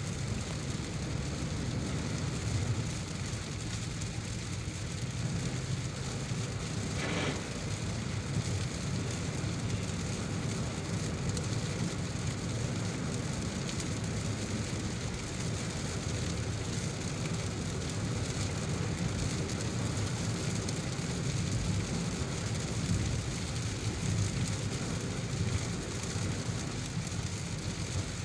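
A car driving in heavy rain: rain hissing steadily over the low rumble of tyres and engine on a wet road. A brief swish is heard about seven seconds in.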